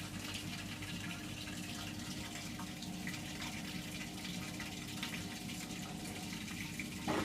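Hotpoint washing machine draining near the end of its cycle: the drain pump runs steadily with a low hum while water rushes through it, ahead of the final spin.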